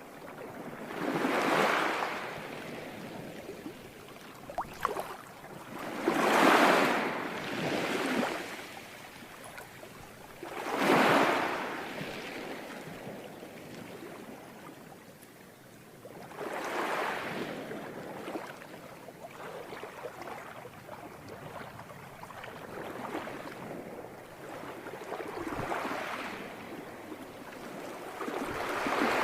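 Ocean waves breaking on a shore, each surge of wash rising and fading every few seconds.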